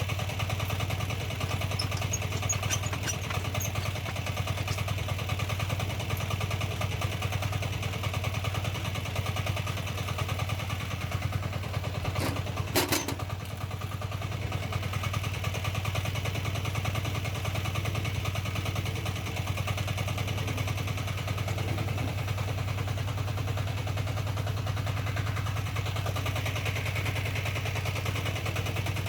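Single-cylinder diesel engine of a walk-behind tractor running steadily with a rapid, even clatter. Two sharp clanks about twelve to thirteen seconds in.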